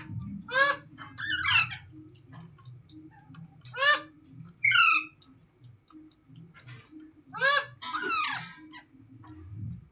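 Indian ringneck parrot giving harsh squawking calls in three bouts about three and a half seconds apart, each a sharp screech followed by a quick run of falling squawks. A steady low hum runs underneath.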